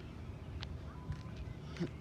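Faint steady low rumble outdoors, with a few small clicks.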